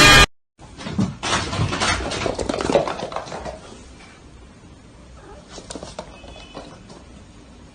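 A pet animal moving about with scattered light taps and scuffles for a couple of seconds, then quieter, with a few faint short high squeaks near the middle.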